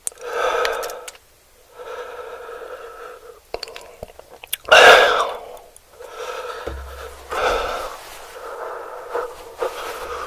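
A person eating close to the microphone: a run of breathy, hissing mouth sounds with small wet clicks, the loudest about five seconds in and lasting under a second.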